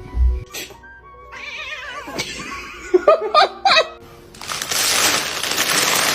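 A cat meowing several times in short, wavering calls, then a loud rushing noise for the last second and a half.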